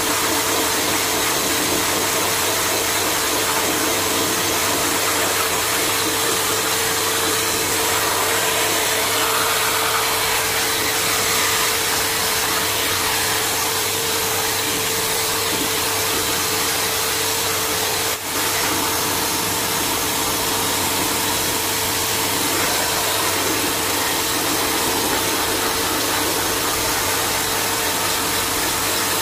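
Electric blow dryer running steadily, a constant rushing noise with a steady hum, with one very brief drop about eighteen seconds in.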